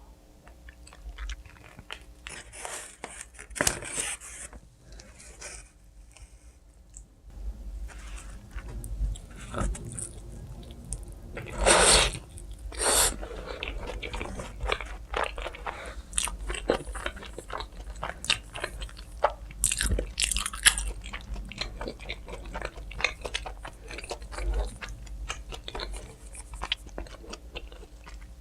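Pizza being bitten and chewed close to the microphone: crunching bites with wet mouth clicks, the loudest bite about twelve seconds in, and a short lull a few seconds in.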